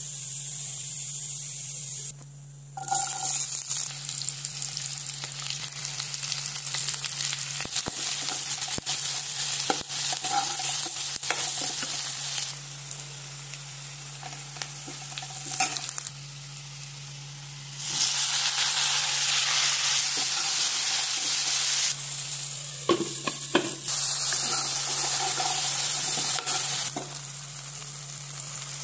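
Chopped onions, curry leaves and green chillies, then tomatoes, sizzling as they fry in hot oil in a pan, stirred with a steel ladle that clicks and scrapes against the metal. A steady low hum runs underneath.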